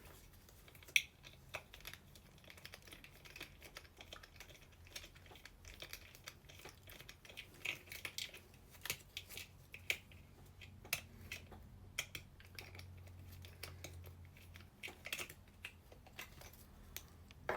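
Faint, irregular small clicks and taps of a plastic Buzz Lightyear toy being handled.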